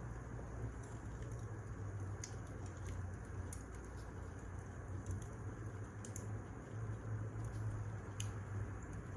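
Wood fire burning, with scattered sharp crackles and pops over a steady low rumble of the flames.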